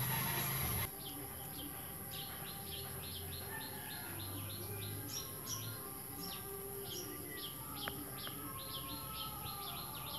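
A bird calling over and over with short, high, falling chirps, about two to three a second. A louder rumbling noise cuts off abruptly just under a second in.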